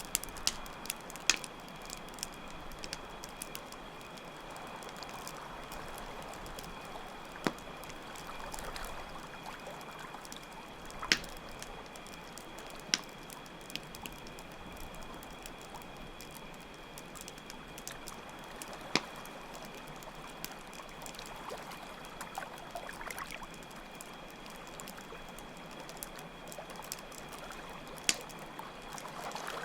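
Night ambience of steadily trickling water and a continuous high chirping of crickets, with a campfire crackling and giving off sharp pops every few seconds.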